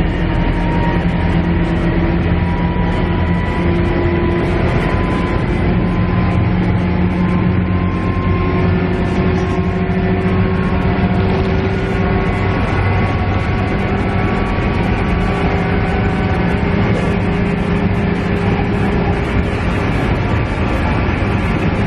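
Steady drone of a KiHa E130 diesel railcar's engine, heard from inside the passenger cabin, with a low hum whose pitch shifts slowly and a steady rush of running noise.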